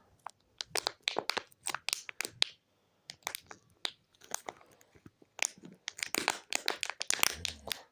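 Homemade slime being squeezed and worked by hand, giving irregular crackling and popping clicks, with a brief pause about three seconds in.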